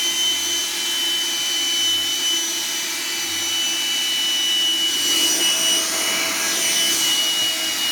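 Vacuum cleaner motor running steadily with a high whine over a rush of air. The airy hiss grows brighter about five seconds in.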